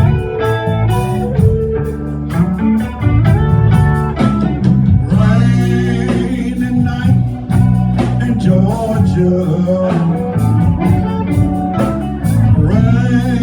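Live blues band playing a slow ballad, with guitar lines that bend and slide over a steady bass.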